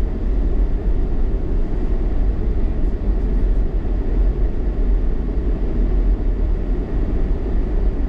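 Car driving on a snowy road: a steady low rumble of engine and tyres.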